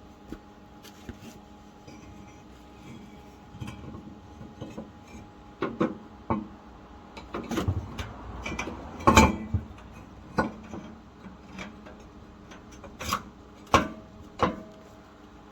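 Steel exhaust sections knocking and scraping together as the gutted catalytic converter casing is worked into the exhaust pipe: irregular clanks and rubs, the loudest about nine seconds in.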